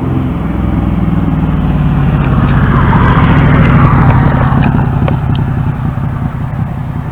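Steam train passing close by, its sound swelling to a peak about halfway and then fading, with a few sharp clicks.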